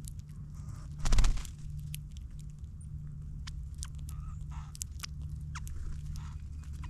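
Small birds feeding on seed at a ground feeder: scattered sharp ticks and clicks of pecking and hopping close to the microphone, with a few faint chirps. About a second in, a brief loud rapid flutter of wings close to the microphone. A steady low rumble runs underneath.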